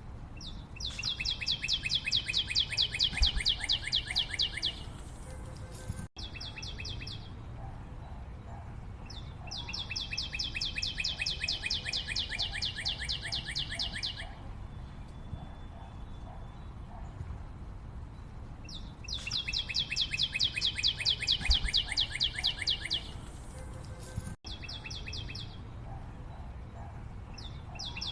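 A bird calling in long, fast trills, each a rapid run of evenly spaced high notes lasting about four seconds, repeated again and again with short breaks between. The sound cuts out for an instant twice.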